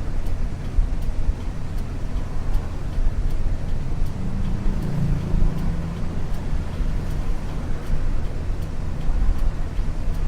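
Cabin running sound of a 1994 Isuzu U-LV224N bus under way: its 6QB2 diesel engine and road noise run steadily, with an engine tone standing out for a couple of seconds around the middle.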